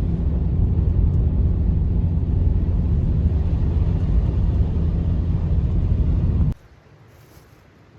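Low, steady rumble of blizzard wind that cuts off abruptly about six and a half seconds in, leaving a quiet background with a few faint ticks.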